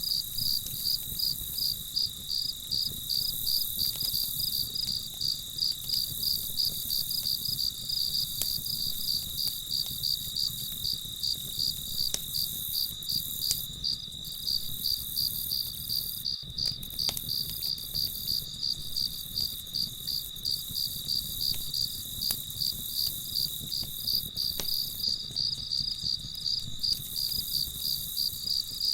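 Crickets chirping in a steady, even rhythm of high-pitched pulses, about two a second, with a few faint scattered clicks underneath.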